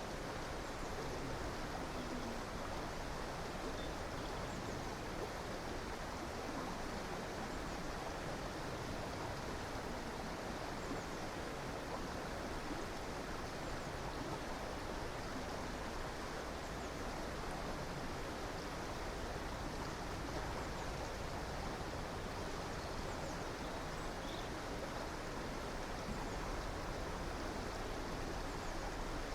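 A river or stream running, a steady rush of water.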